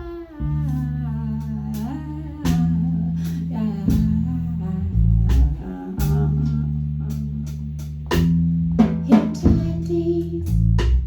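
Live band music: held bass notes under guitar, with sharp rhythmic hits, and a sung or sustained melodic line near the start.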